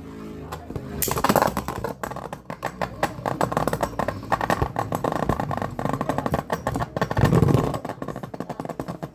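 Two Beyblade Burst spinning tops launched into a stadium and battling: a loud rush about a second in, then fast, irregular clicking and rattling as the tops strike each other and the stadium wall, with one louder clash about seven seconds in.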